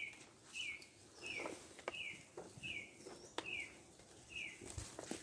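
A bird calling over and over: a short, slightly falling note repeated about every half second, nine or so times, with a few faint clicks between the calls.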